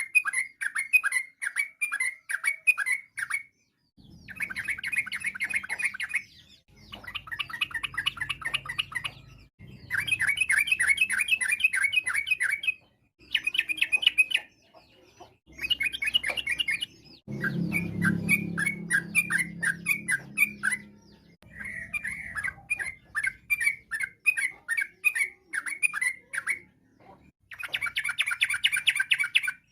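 Yellow-vented bulbul (trucukan) song: bouts of rapid chattering notes lasting two to three seconds each, repeated about nine times with short silent gaps between them.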